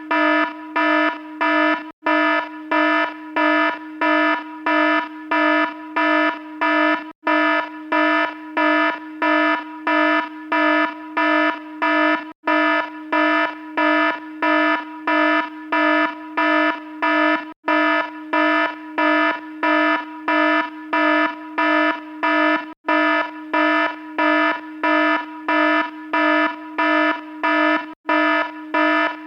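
Electronic alarm beeping rapidly and evenly, about two harsh, buzzy beeps a second, over a steady lower tone that carries on between the beeps. A very brief break comes about every five seconds where the repeating sound starts over.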